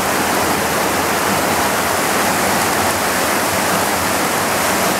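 Waterfall rushing: steady, loud noise of falling water with no breaks.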